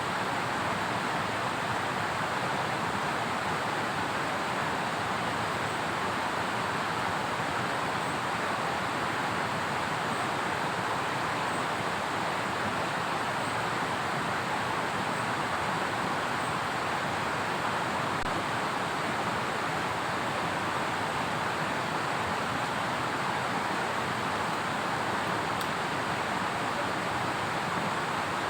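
Steady, unbroken rushing of water from heavy rain and a swollen river, with no separate events.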